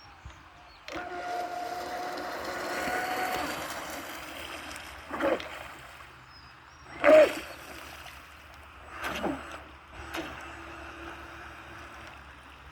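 Homemade radio-controlled model boat's twin electric motors whining as it runs across the water, with several short louder bursts, the loudest about seven seconds in.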